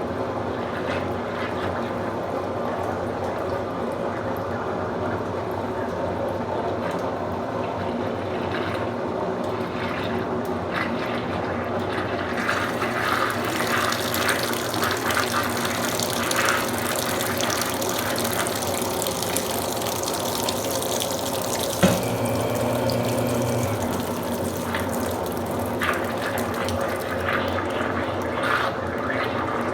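Consul Supercargo 8 kg washing machine filling with water, water running and splashing into the tub, getting stronger and more splashy about halfway through. About 22 seconds in there is a sharp click followed by a short low hum.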